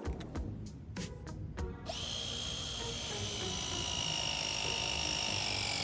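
A run of sharp clicks, then a power tool's motor whines steadily for about four seconds and begins to wind down in pitch near the end.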